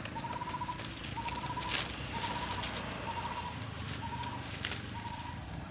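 A bird calling steadily in the background, repeating a short, even trilled note about once a second, over a low steady rumble and the faint rustle of dry leaves.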